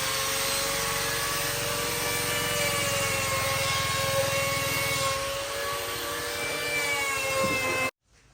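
A motor running steadily, with a pulsing low rumble under a steady whine. The low rumble eases about five seconds in, and the sound cuts off abruptly near the end.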